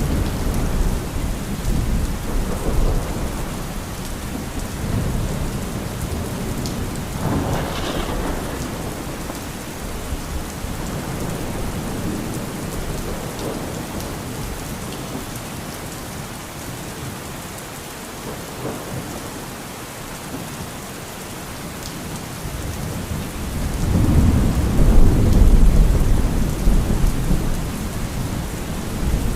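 Steady rain during a thunderstorm, with thunder rumbling low underneath. A sharper roll of thunder comes about a quarter of the way in, and a loud, deep rumble of thunder near the end is the loudest part.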